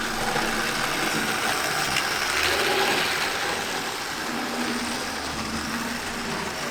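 A steady mechanical hum over an even background noise.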